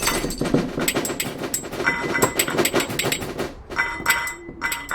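Earthquake-shaking sound effects: a dense, irregular clatter of rattling and knocking objects, with two short tones sounding about two and four seconds in.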